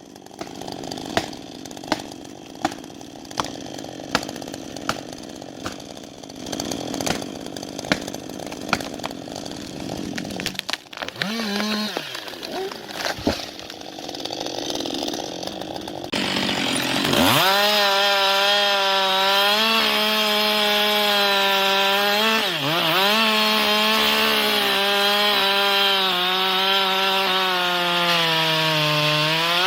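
Two-stroke chainsaw, first a series of sharp, regular knocks about one a second, then the saw revving briefly, and from about halfway through running loud at high speed while cutting, its pitch dipping twice as the chain bogs in the wood.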